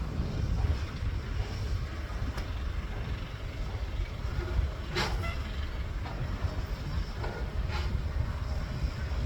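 Excavator engine running steadily with a low rumble. Two sharp knocks come through, one about five seconds in and another nearly three seconds later.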